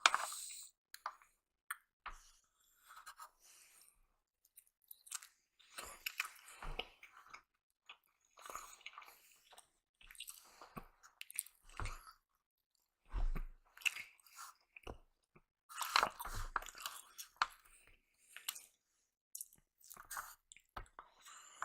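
Close-miked chewing of ham: irregular wet, crunchy bites and mouth sounds, coming in uneven bursts with short quiet gaps between.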